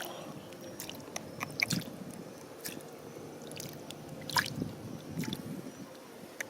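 Wet stones and gravel being handled in shallow river water: scattered sharp clicks of pebbles knocking together, with small wet squishes and drips.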